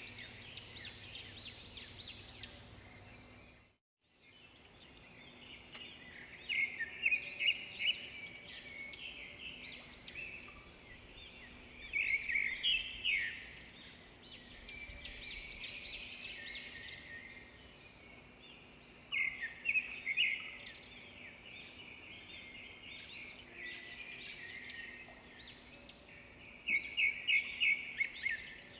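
Birds chirping in a steady chorus, with louder bursts of quick repeated high notes every several seconds. The sound cuts out completely for a moment about four seconds in.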